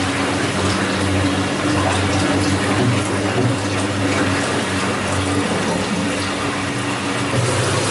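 Daewoo DWF-5586DP top-loading washing machine's drain pump running steadily, a low hum with water rushing as the drum is pumped out in the drain cycle.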